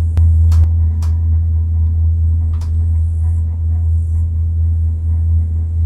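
Steady low mechanical hum of gondola lift machinery, with several sharp clicks and knocks in the first few seconds.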